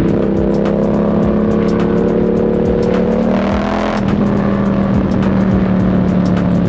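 Yamaha MT-07's parallel-twin engine heard from the rider's seat, pulling with its pitch climbing slowly, then dropping about four seconds in and running steady at a lower pitch.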